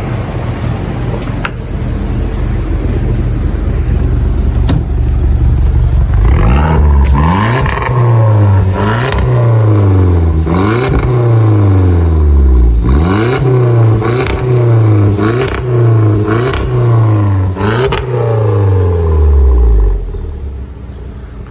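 A 1.4-litre turbocharged Mk6 hatchback's engine idling, then blipped around ten times in quick succession from about six seconds in, each rev rising and dropping back. It settles to idle near the end.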